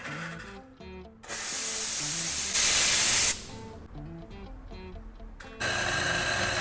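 Conti Ace espresso machine's steam wand hissing out steam in two bursts. The first lasts about two seconds and gets louder toward its end; the second starts near the end.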